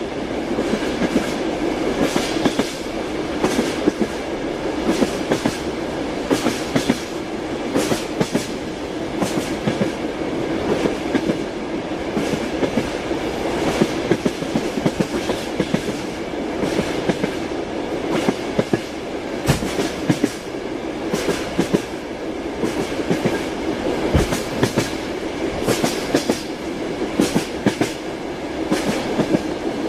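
Train running along the track: a steady rumble with the wheels clattering irregularly over rail joints, clickety-clack.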